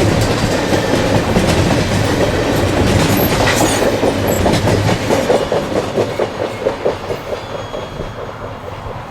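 Freight train rolling past, its wheels clicking in a quick regular run over the rail joints, growing fainter over the last few seconds as it moves away.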